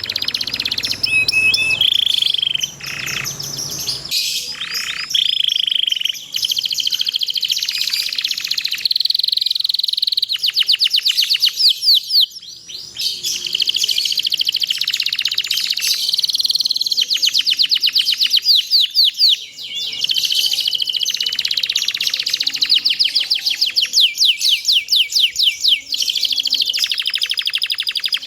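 Domestic canary singing a long, continuous song of fast trills of rapidly repeated notes alternating with held whistled notes, with brief breaks about twelve and nineteen seconds in.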